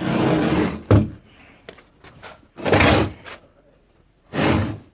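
A sharp thump about a second in, among three short, loud rushing noises spaced a second or two apart.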